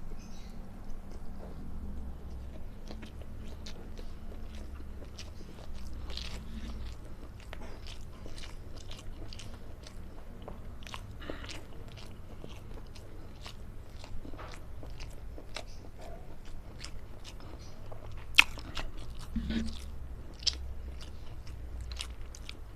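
Close-up chewing and mouth sounds of someone eating a mouthful of rice and long beans in sambal: many small irregular wet clicks and smacks, with a couple of sharper clicks near the end.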